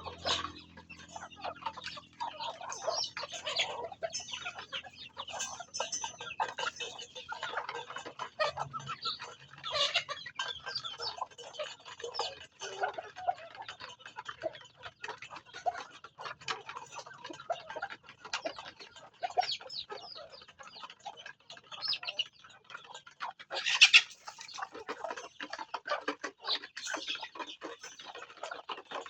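Chickens clucking and calling, with many short clicks scattered throughout. One louder sharp burst comes about five seconds before the end.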